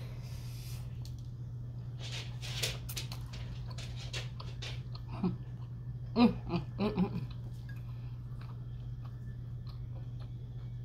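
Close-up biting and chewing of a Philly cheesesteak sandwich on a soft panini roll: wet mouth noises and a few crunches, with several short hummed 'mm' sounds of enjoyment about six to seven seconds in, over a steady low hum.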